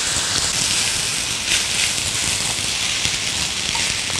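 Fried rice sizzling steadily in a hot pan while a spatula stirs through it, mixing in sweet soy sauce, with a few brief scrapes of the spatula.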